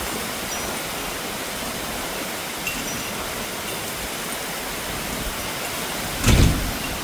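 Heavy rain pouring steadily during a thunderstorm, an even rushing hiss. About six seconds in comes a short, loud thump.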